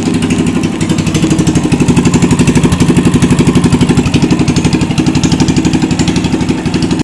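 Coleman CT200U mini bike's small single-cylinder engine running steadily through a newly fitted longer exhaust pipe, with a fast, even exhaust beat.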